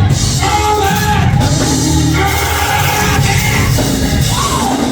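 Church band of organ and drums playing under a preacher's sung, shouted sermon cadence, the 'whooping' close of a Black Baptist sermon, with voices rising over the music.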